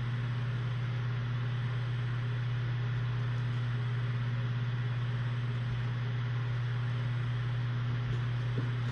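Steady low hum with an even hiss underneath: constant background noise of a room with something electrical running, with no other sound on top.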